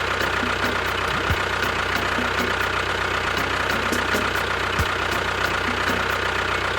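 Motor of a DIY mini tractor running steadily, with a regular light ticking about three to four times a second.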